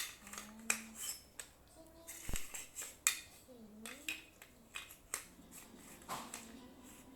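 Plastic Lego bricks clicking and clattering as pieces are handled: a string of sharp, irregular clicks.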